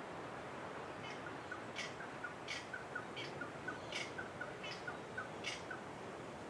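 A bird calling a run of short, evenly repeated notes, roughly one every 0.7 seconds, starting about a second in and stopping near the end, over the steady wash of ocean surf.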